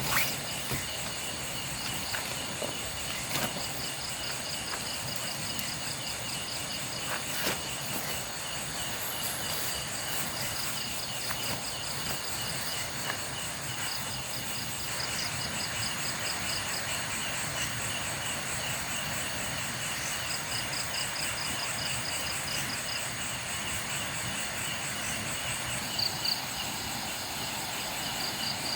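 Night chorus of crickets and other insects: several steady high trills at once, with a higher pulsing trill that comes and goes in runs of a second or two, over a soft even hiss.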